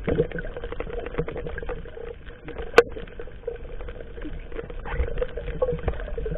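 Scattered knocks, clicks and water sounds aboard a small fishing boat, with one sharp click about three seconds in.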